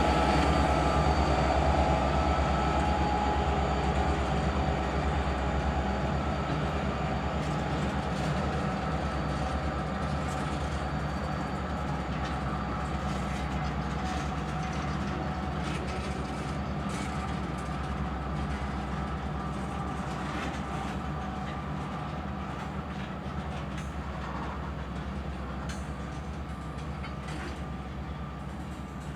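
Two EMD SD40-2 diesel locomotives running under power, their 16-cylinder two-stroke engines giving a steady low drone that slowly fades, with a few faint clicks from the wheels on the rails.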